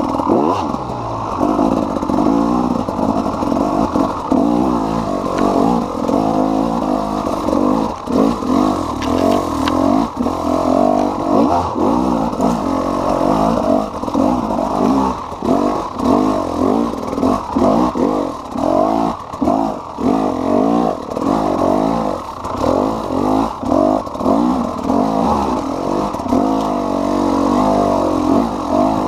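KTM EXC 300 Six Days two-stroke single-cylinder enduro engine revving up and down repeatedly under the rider's throttle, the pitch rising and falling every second or so.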